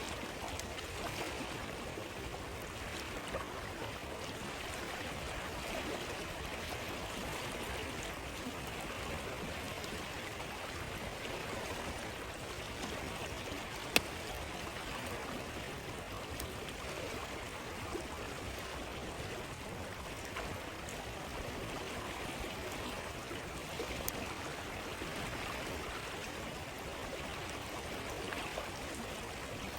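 Steady flowing of a stream beside a wood campfire. The fire gives one sharp, loud pop about halfway through and a few fainter crackles later.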